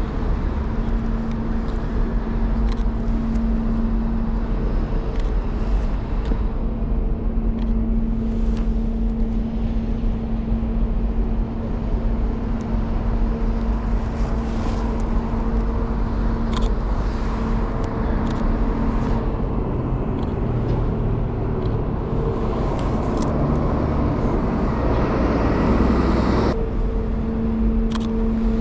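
Urban road traffic rumble with a steady mechanical hum. Near the end a vehicle's noise swells up and then cuts off abruptly.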